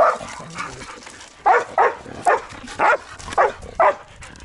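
A dog barking six short barks in a row, about half a second apart, in the middle of the stretch.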